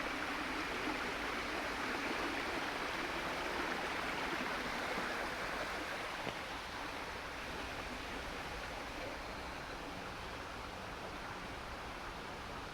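Small garden waterfall, water falling and splashing steadily into a pool.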